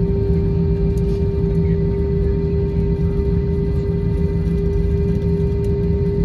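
Airbus A321's jet engines running at high power during departure, heard inside the cabin: a steady loud rumble with a constant hum tone and no change in pitch.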